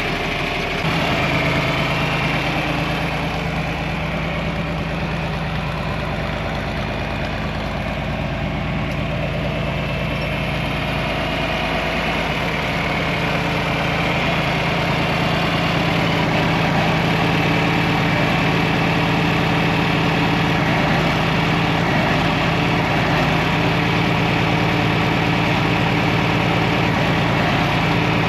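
John Deere 4000 tractor engine idling steadily, getting a little louder about halfway through.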